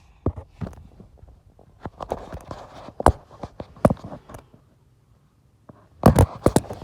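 Irregular sharp clicks and knocks, a nearly quiet pause, then a quick cluster of louder knocks near the end.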